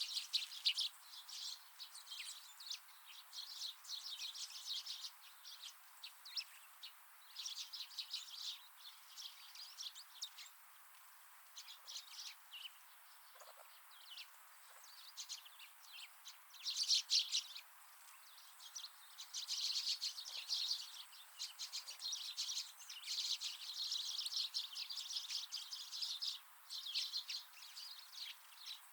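Wild birds chirping in busy, overlapping runs of short high calls, thinning out for a few seconds midway, over faint outdoor hiss.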